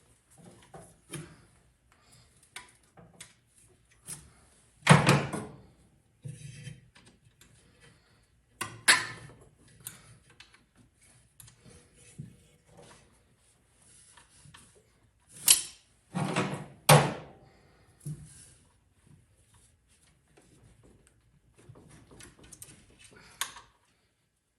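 Intermittent clunks, clinks and rattles of hand tools and metal engine parts being handled, with the loudest knocks about five and nine seconds in and a cluster of three around sixteen seconds.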